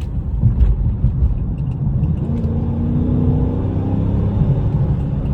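Dodge Charger R/T's V8 engine and exhaust rumbling as the car drives in sport mode, heard from inside the car. The engine drone grows a little louder about two seconds in.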